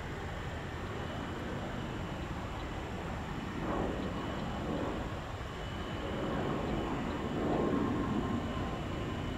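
Jet airliner engine noise: a steady rumble that swells a few times, loudest around two-thirds of the way through.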